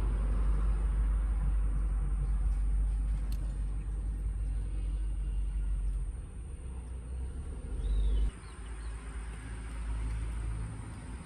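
Low, steady rumble of a car on the road, easing about six seconds in and dropping off sharply just after eight seconds.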